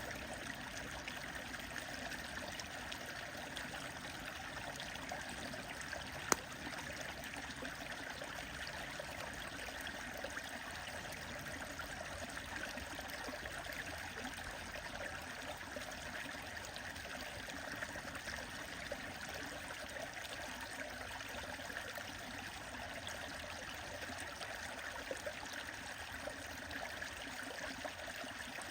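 A stream flowing steadily, with a single sharp pop from the bonfire about six seconds in.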